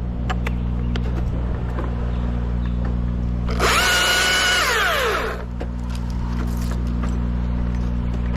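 A chainsaw comes in with a high whine about three and a half seconds in, cuts for about a second and a half, then winds down with a falling pitch. Underneath, the steady low drone of the aerial lift's engine runs throughout.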